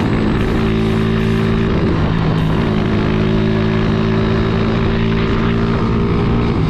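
Honda CG 150 Titan's single-cylinder four-stroke engine running steadily under way, its pitch dipping slightly about two seconds in and then holding even.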